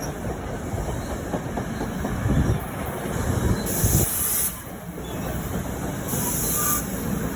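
Commuter passenger train led by a PL42AC diesel locomotive passing through the station: a steady rumble of the cars and wheels on the rails, with short bursts of hiss about four and six seconds in.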